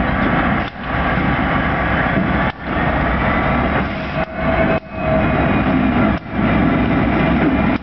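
Diesel switching locomotive engine running close by, a steady heavy rumble that briefly drops out several times.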